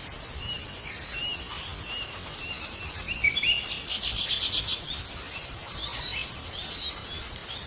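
Bird chirping: a run of short, high chirps about twice a second, with a rapid buzzy trill a little after the middle.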